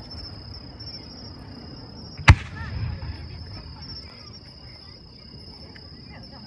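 A firework shell bursting with a single sharp bang about two seconds in, over a steady high-pitched tone.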